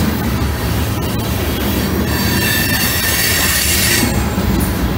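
Freight train of covered hopper cars rolling past close by, wheels on the rails making a steady rumble and hiss. A high-pitched wheel squeal rises in the middle.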